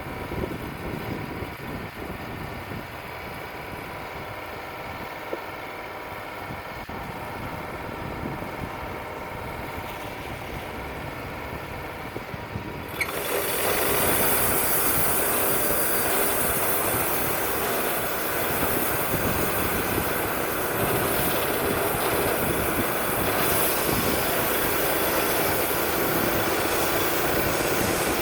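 Wood-Mizer LT35 portable bandsaw mill running steadily. About halfway through, the sound jumps much louder and brighter, with a loud hiss, as the mill comes up to cutting speed and the band blade runs into the poplar log.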